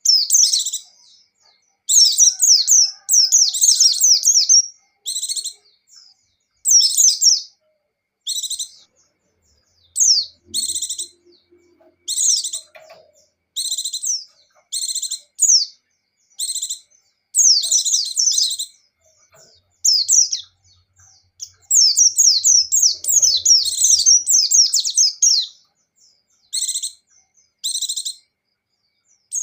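Pleci (white-eye) singing in repeated bursts of high, quick, twittering notes with short pauses between phrases, and two longer unbroken runs, one about two seconds in and one around three quarters of the way through.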